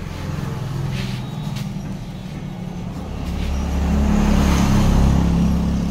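Motorcycle engine running, growing louder about three seconds in, then easing off slightly near the end.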